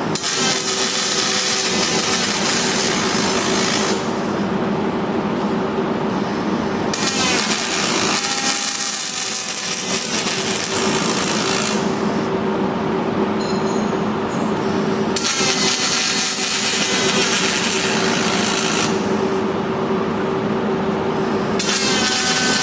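Robotic MIG welding of aluminum: the welding arc hisses and crackles in four stretches of a few seconds each, with pauses of about three seconds between welds. A steady machine hum runs under it throughout.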